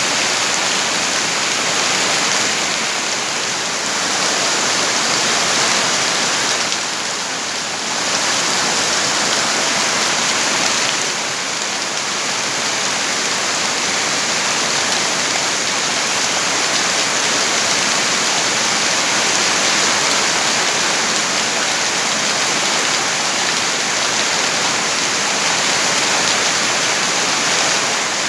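Steady heavy rain, a dense even hiss that eases slightly for a moment about seven seconds in.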